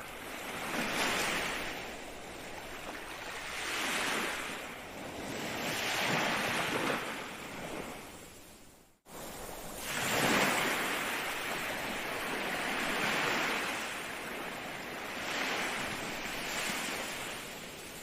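Ocean surf: waves breaking and washing in, swelling and fading every two to three seconds. About halfway through, the sound fades and then cuts to silence for an instant before the surf resumes.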